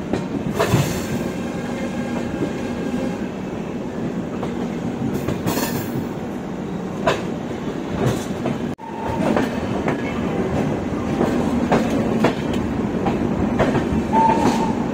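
Shatabdi Express passenger train running on the track: a steady rumble and rail noise with occasional knocks of the wheels over rail joints, and a short high squeal near the end.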